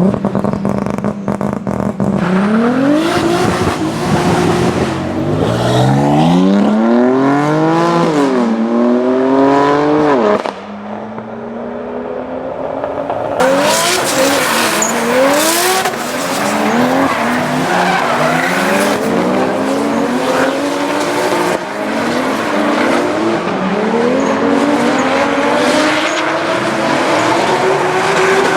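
Modified car engine revved hard again and again, its pitch repeatedly climbing and dropping, with tyres squealing. About ten seconds in the sound drops and dulls for a few seconds, then returns suddenly as the revving goes on.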